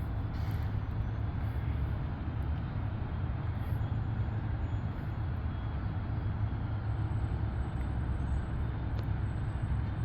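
Siemens Charger diesel-electric locomotive idling at a standstill, a steady low rumble.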